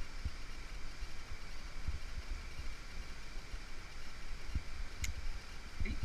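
Steady rushing noise of water in a mountain gorge, with irregular low thumps on the microphone.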